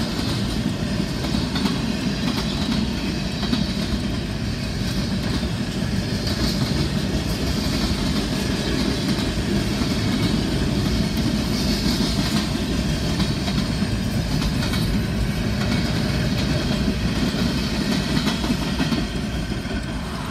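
Freight train cars (boxcars and covered hoppers) rolling past across a road crossing, their wheels running steadily on the rails, heard from inside a car. The sound eases off near the end as the last car clears the crossing.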